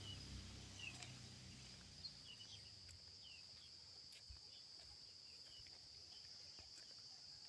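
Faint crickets trilling steadily in one constant high-pitched tone, with a few faint short bird chirps over it.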